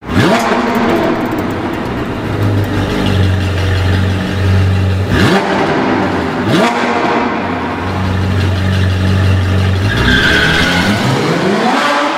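Sports car engine running and revving, with two quick rev blips about five and six and a half seconds in and a steadily rising pitch near the end as it accelerates.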